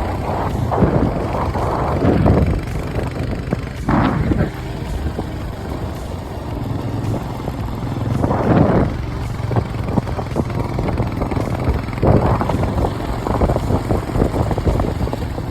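Motorcycle running on the move, a steady low engine rumble with wind gusting over the microphone.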